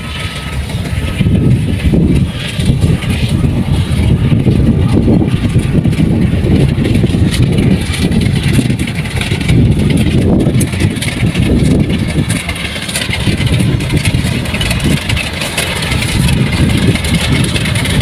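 Engine of heavy farm machinery running, its sound rising and falling in loudness.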